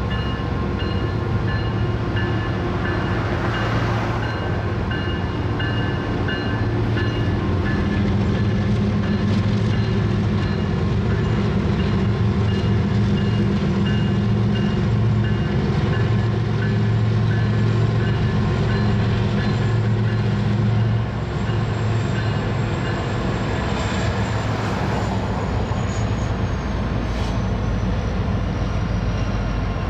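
Union Pacific diesel freight locomotive and its train running past, a loud steady engine drone. Thin pulsing high tones ring over it in the first several seconds, and a faint high whine falls in pitch near the end.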